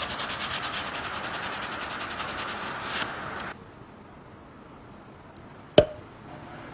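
Quick, regular rubbing or scraping strokes that stop about halfway through, followed by a single sharp knock.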